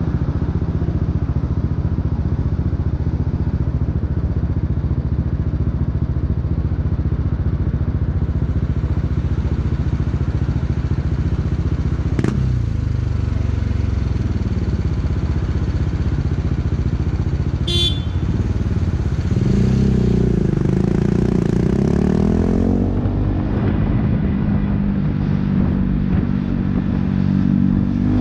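BMW G 310 R's single-cylinder engine running through an Akrapovic racing exhaust, first at a steady low speed. About 19 seconds in the pitch rises in steps as the bike accelerates through the gears, then it settles to a steady run. There is a sharp click about 12 seconds in and a short high squeak around 18 seconds.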